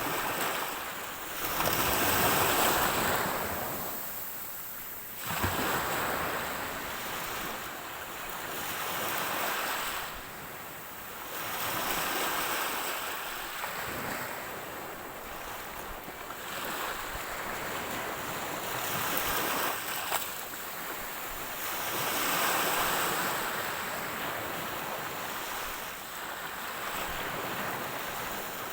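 Ocean waves breaking and washing up on the shore, the surf swelling and fading every few seconds.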